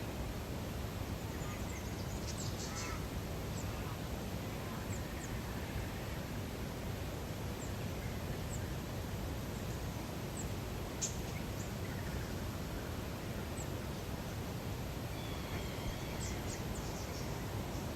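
Natural lake ambience: a steady low background rush with scattered short, high bird calls, the sharpest about eleven seconds in.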